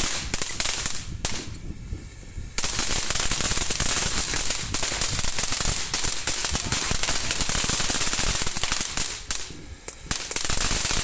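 A firework crackling with a rapid, dense string of pops, breaking off briefly about a second in and again near the end.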